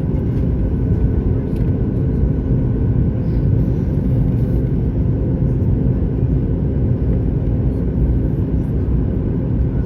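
Steady cabin noise of a Boeing 737-9 MAX with its CFM LEAP-1B engines running: a loud, even low rumble with a faint steady hum over it.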